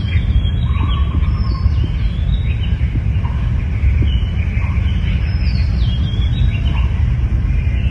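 Birds calling in short chirps and sliding notes over a loud, steady low rumble.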